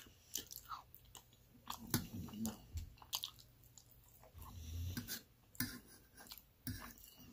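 Close-miked chewing of meatloaf: soft, irregular mouth clicks and smacks, with the metal fork now and then clicking and scraping on the metal pan.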